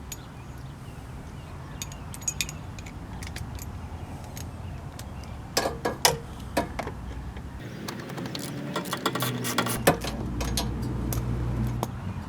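Hand tools and metal parts clicking and knocking during radiator removal work on a car, with a burst of loud knocks about six seconds in and another run of clatter near the end.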